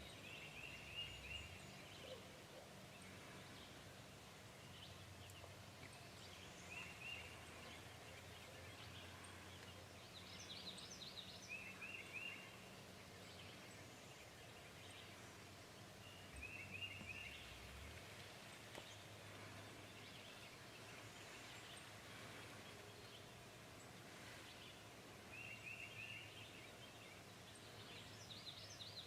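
Faint bird calls: short clusters of rapid high notes repeating every few seconds over a low steady hum.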